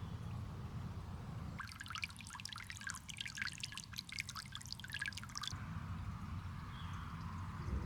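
Water pouring and splashing in a quick patter of drips for about four seconds, starting and stopping abruptly, over a low steady rumble.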